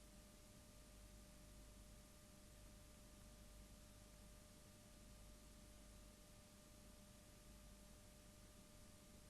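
Near silence: a faint steady hum and hiss with no other sound.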